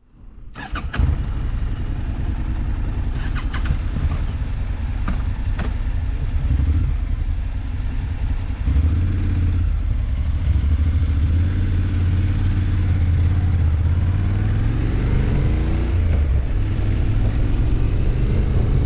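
Honda NC750X parallel-twin motorcycle engine running on the road, fading in at the start, with a few sharp clicks in the first six seconds. It gets louder about nine seconds in, and its pitch climbs as the bike accelerates around fifteen seconds in.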